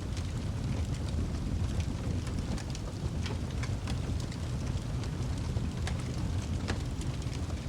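Wood fire in a fireplace crackling, with irregular sharp pops and snaps over a steady low rumble of burning logs.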